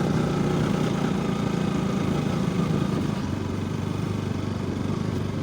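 Motorcycle engine running steadily while riding, with a lower engine note coming in about three seconds in.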